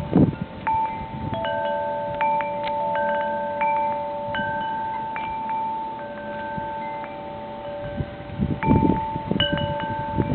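Wind chimes ringing in blizzard wind: clear struck tones overlap and ring on for seconds. Gusts buffet the microphone at the start and again about nine seconds in.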